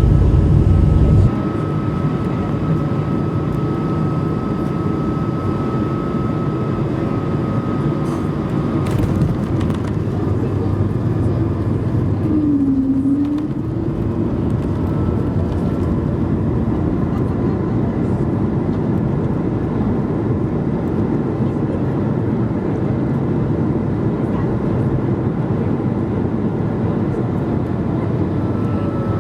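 Cabin noise of an Airbus A220-300 airliner: a steady rumble of airflow and its Pratt & Whitney PW1500G geared turbofan engines, with a faint steady whine. A heavier low rumble drops away about a second in, and an engine tone briefly dips and rises in pitch about halfway through.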